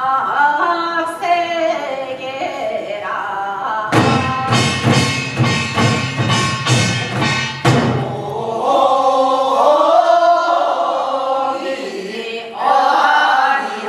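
Several voices singing Gyeonggi hwimori japga, a fast-paced Korean folk song, in long bending phrases. From about four seconds in, a run of sharp, evenly spaced drum strokes sounds under the voices for a few seconds before the singing carries on alone.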